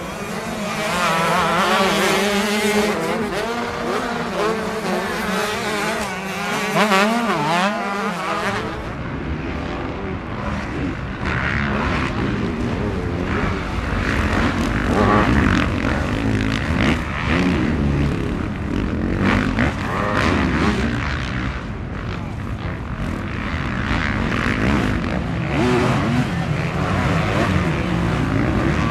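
Motocross bike engines revving up and down as the bikes ride the track. About eight seconds in, the sound changes abruptly to a denser, lower mix of several bikes running at once.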